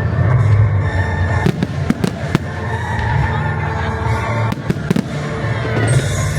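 Fireworks display: about five sharp bangs and crackles in the second half, over a continuous low rumble, with music playing throughout.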